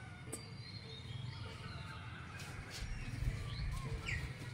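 Quiet outdoor ambience with a few faint bird calls. Near the end a bird starts a quick run of repeated short chirps.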